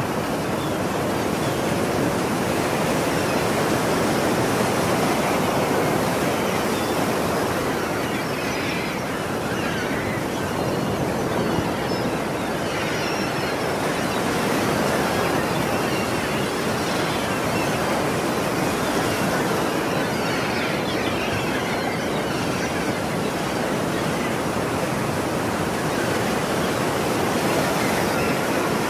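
Ocean surf: waves breaking and washing in a continuous roar of water, swelling and easing gently.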